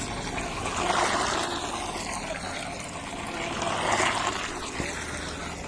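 Water sloshing and trickling, swelling about a second in and again near four seconds.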